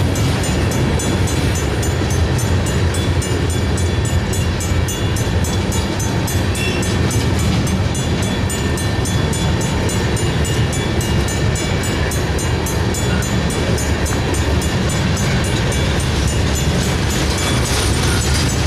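Ballast hopper cars of a freight train rolling steadily past with wheel and rail rumble. Over it a Safetran mechanical crossing bell rings in fast, even strokes.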